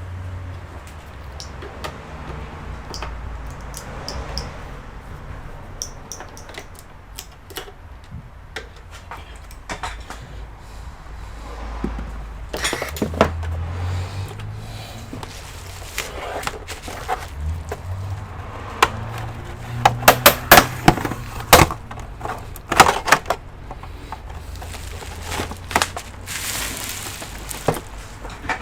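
Clicks and knocks from an Asus ET2321 all-in-one computer's plastic case being worked open by hand. There are scattered light clicks, then a cluster of loud, sharp clicks about two-thirds of the way through.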